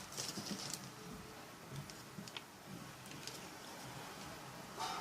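Faint handling noises: scattered light clicks and rustles of small objects being picked up and moved.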